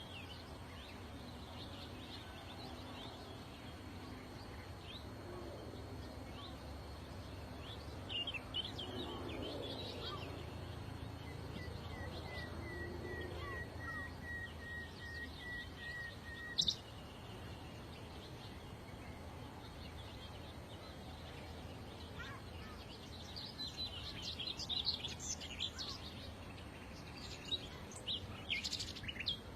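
Small wild birds chirping and calling: scattered short chirps, a rapid even trill lasting about five seconds near the middle, followed by a short sharp note, then busier bursts of chirping near the end, over a steady low background hum.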